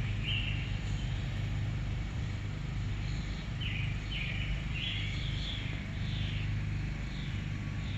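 Birds chirping: short, high chirps, one near the start and a quick run of them in the second half, over a steady low hum.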